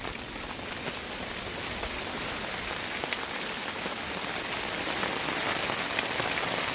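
Hail and rain falling steadily, an even hiss of pellets striking surfaces with scattered sharper ticks, growing slightly louder.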